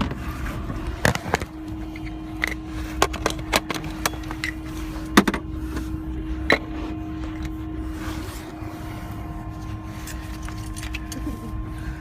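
Camera being handled while a lens is swapped: scattered sharp clicks and knocks, the loudest about five seconds in. Under them run a steady low rumble and a steady hum.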